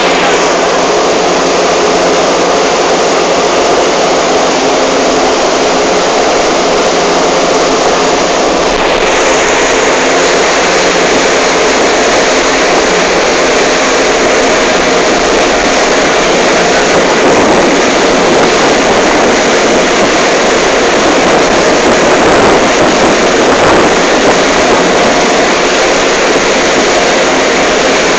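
Motorboat engine running steadily under way, with the rush of water and wind over the hull.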